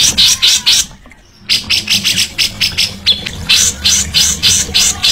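Songbird giving rapid repeated high chirps, about four or five a second, with a short break about a second in.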